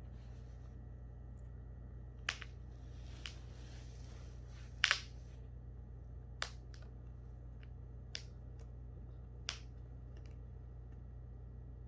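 About seven sharp clicks at irregular intervals, the loudest about five seconds in, over a steady low hum.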